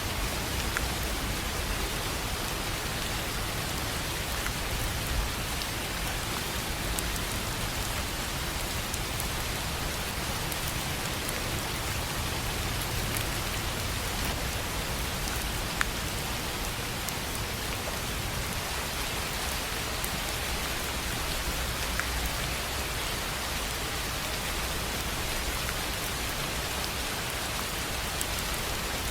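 Steady rain on a tin roof, an even hiss with a few sharper drop taps standing out here and there.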